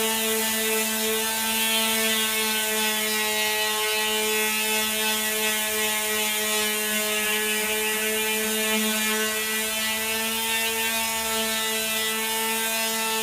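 Handheld power tool motor running steadily at a constant pitch with a hissing undertone, taking material off the edge of a dashboard piece to shape it to a curve.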